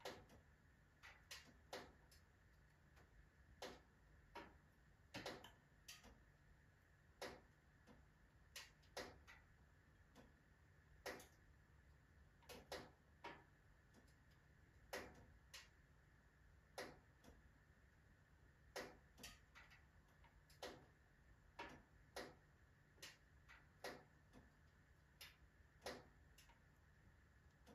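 Wood fire crackling in a fully loaded wood-burning stove: faint, irregular sharp pops and crackles, one or two a second at uneven spacing.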